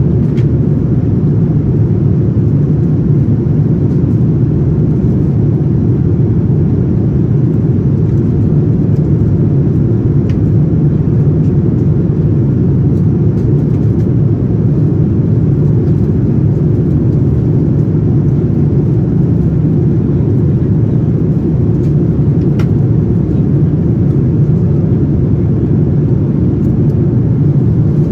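Steady low rumble of a Boeing 787-9 airliner's engines and airflow, heard from inside the passenger cabin, holding even without rising or falling.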